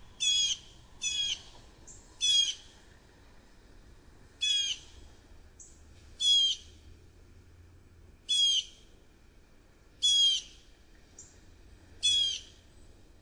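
Blue jay giving harsh jeer calls: eight short, rasping calls, each under half a second, spaced irregularly one to two seconds apart.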